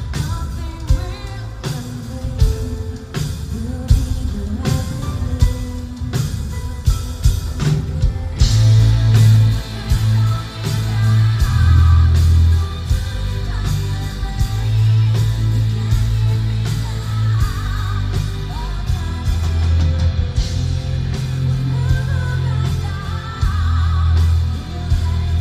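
Symphonic metal band playing live, a female lead voice singing over drums and guitars. About eight seconds in, the full band comes in heavily and the sound thickens with deep bass and distorted guitars.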